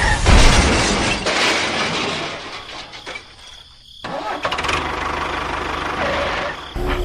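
A motor running with a rough, noisy sound that dies down about three seconds in, then picks up again as a steady buzz.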